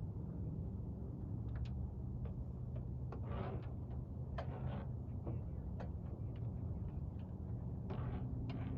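A steady low motor drone, like a small boat engine running, with scattered clicks, ticks and a few short creaks or rustles over it.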